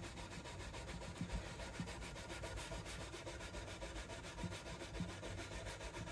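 Steel wool scrubbing back and forth over an acoustic guitar's fretboard and frets to polish the frets and clean the board. It is a steady scratchy rubbing in quick, even strokes.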